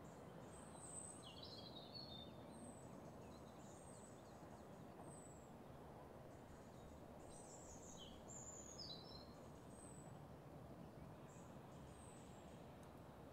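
Faint outdoor ambience with small birds calling: a short, high, downward chirp repeated about once a second, with busier twittering about one and a half seconds in and again around eight and a half seconds.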